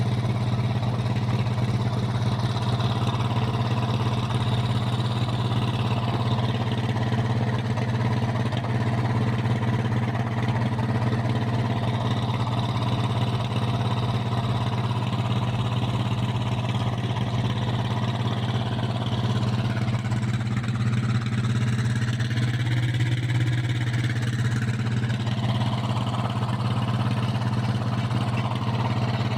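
A diesel engine running steadily at a constant speed, with no revving or load changes.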